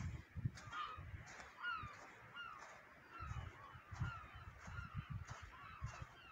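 A bird calling over and over: a quick series of short honking calls, each bending in pitch, a few each second. Low rumbles come and go underneath.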